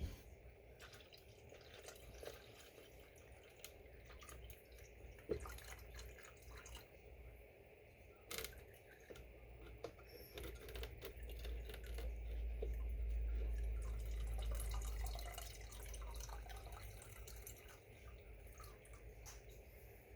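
Coolant dripping and trickling from the Mustang's cooling system into a container, with scattered small ticks. A low rumble swells and fades about two-thirds of the way through.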